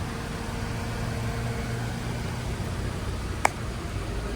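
Car engine idling with a steady low hum, and one short sharp click about three and a half seconds in.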